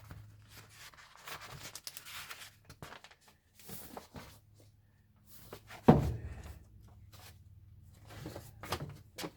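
Paper pages rustling as a manual is leafed through, with one louder thump about six seconds in and a faint steady hum underneath.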